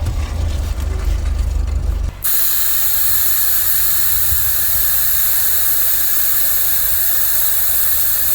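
A low rumble, then about two seconds in a loud, steady hiss starts abruptly and holds unchanged until it cuts off at the end.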